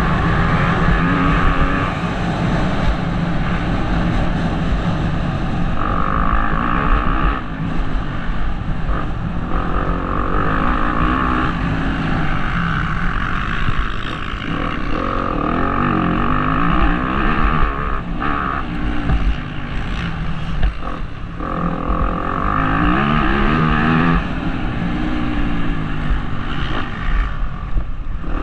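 Motocross bike engine, heard from the rider's helmet camera, revving up and down over and over as the rider works the throttle and gears around the track, with brief drops in level.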